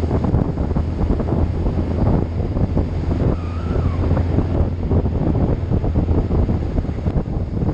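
Wind buffeting the microphone of a moving vehicle, over a steady low engine hum. About three and a half seconds in, a faint brief whistle-like tone rises and falls.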